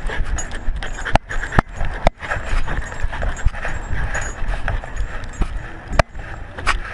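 Collar-mounted GoPro bouncing and rattling against a moving dog's collar, with a run of irregular sharp knocks.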